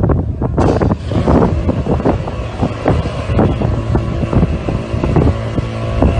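Motorboat engine running, with wind buffeting the microphone and repeated short knocks or slaps throughout.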